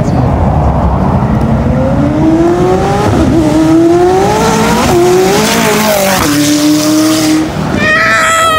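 A sports car accelerating hard as it leaves, its engine note climbing, dropping at an upshift about three seconds in and again about five seconds in, then holding steady.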